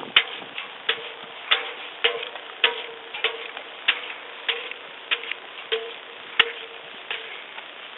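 Steady, even ticking of sharp clicks, about one every 0.6 s, each with a short ringing tone after it.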